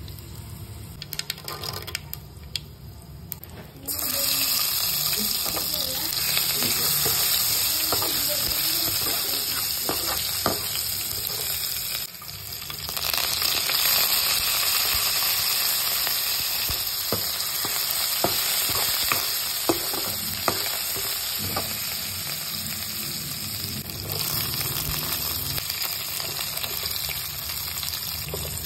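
Spices and vegetables frying in hot oil in a steel pan: a steady sizzle that gets much louder about four seconds in, with a spatula clicking and scraping against the pan as it stirs.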